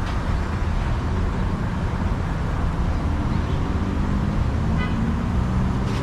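Road traffic with a vehicle engine running as a low steady rumble, joined by a steady hum about three seconds in. A short high beep comes about five seconds in.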